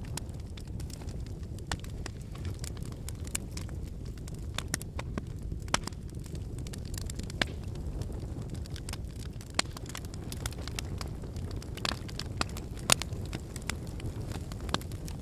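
Wood bonfire burning: a steady low rush of flames with frequent, irregular sharp crackles and pops from the burning firewood, the loudest pop about 13 seconds in.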